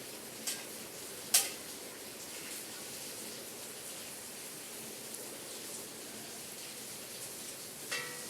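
Steady rain with a few sharp taps, the loudest about a second and a half in. Near the end, rain strikes one of the small bells of a home bell tower and it rings with a clear, several-toned chime.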